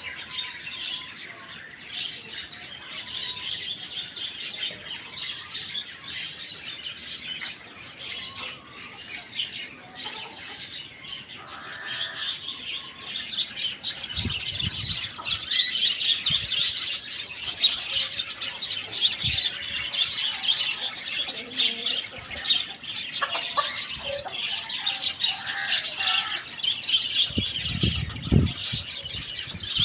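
Many small birds chirping and chattering together without a break, getting louder about halfway through. A short, lower call comes about twelve seconds in, and a few dull low thumps come midway and near the end.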